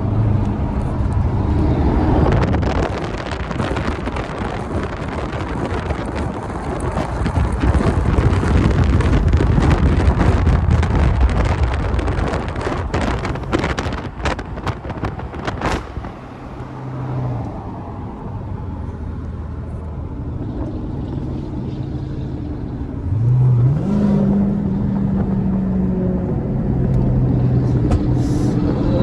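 Muscle-car V8 engines and exhausts running loud and rough for about the first sixteen seconds, with a run of sharp cracks near the middle. After that, a steady engine drone with one short rev that rises about twenty-three seconds in.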